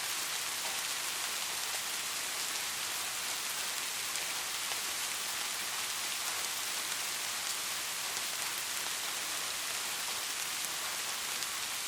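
Light rain falling steadily: an even, high hiss with fine scattered drop ticks.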